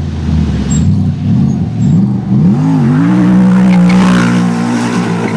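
A sports car engine revving: several quick blips of the throttle, then held at steady high revs for about two seconds near the end.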